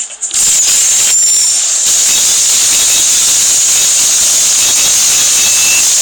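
Loud steady hissing whoosh from the Beyblade Burst mobile game, cutting in about a third of a second in and taking the place of the game music.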